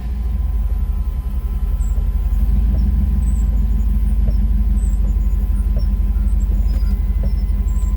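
1997 Chevy K1500's 5.7 L V8 idling steadily, just after being started.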